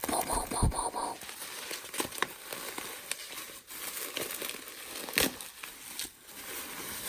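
Packaging being crinkled and torn open by hand, with scattered small clicks and one sharper knock about five seconds in.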